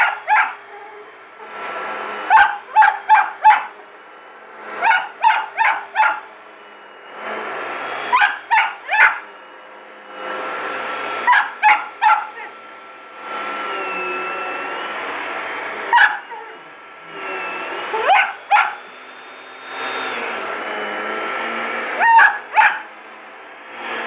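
A dog barking at a running vacuum cleaner, in bursts of about two to five quick barks every few seconds. The vacuum's steady noise comes and goes between the bursts.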